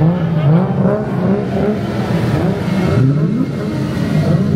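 Car engines revving, their pitch repeatedly dipping and rising, with a steep climb in revs about three seconds in.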